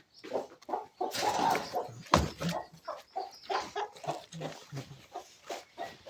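Several chickens clucking rapidly, short overlapping calls, excited at feeding time. There is a brief rustle about a second in and a sharp knock just after two seconds.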